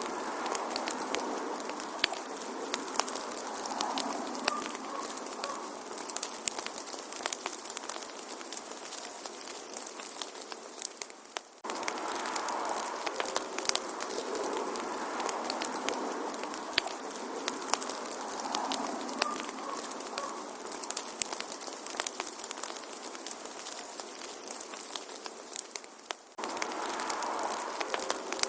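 Wood fire crackling: a steady hiss studded with many small, sharp pops at irregular intervals. The sound dips briefly and starts afresh twice, about 12 and 26 seconds in.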